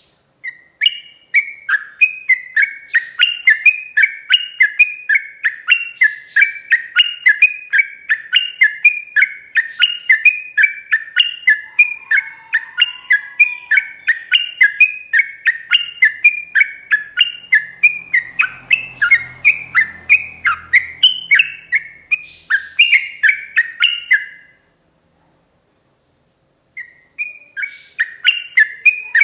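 Yellow-vented bulbul (trucuk) singing a long, fast run of sharp repeated notes, about three a second, for over twenty seconds. It breaks off near the end and starts again a couple of seconds later.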